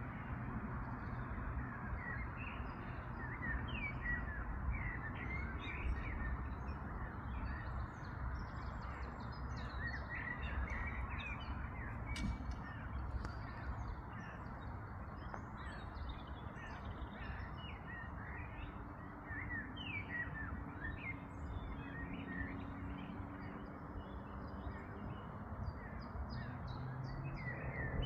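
Many birds calling, a busy run of short chirps and calls throughout, over a steady low rumble.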